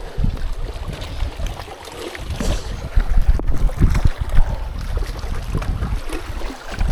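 Strong gusty wind buffeting the microphone, an uneven low rumble that rises and falls with the gusts.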